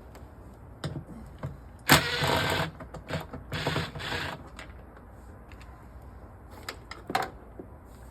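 Ratchet wrench clicking in short runs as 10 mm acorn nuts are worked loose, with separate metallic clicks of the tool on the fittings.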